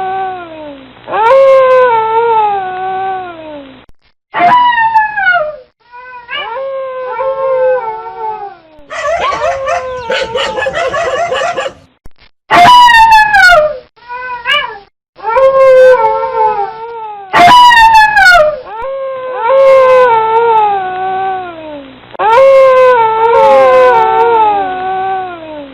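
Dogs howling: a series of long, wavering howls, each sliding down in pitch at its end, one after another with abrupt breaks between them. A stretch around the middle holds several howls overlapping at once.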